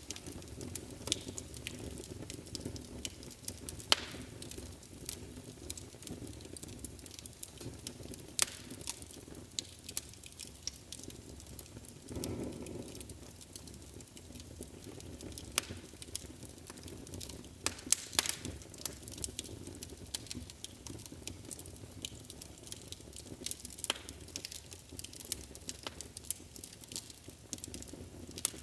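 Wood fire in a fireplace crackling: irregular sharp pops and snaps over a steady low rush of flame, a few pops much louder than the rest. About twelve seconds in the flames briefly swell.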